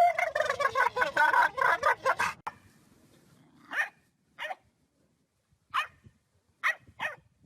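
A dog barking: a fast run of barks for the first couple of seconds, then single short barks spaced a second or so apart.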